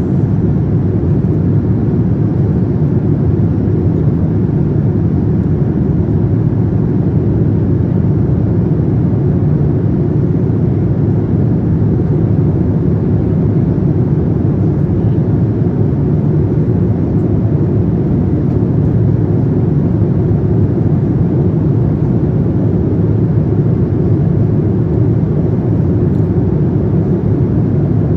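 Steady low rumble of a Boeing 787-9's engines and airflow heard from inside the passenger cabin.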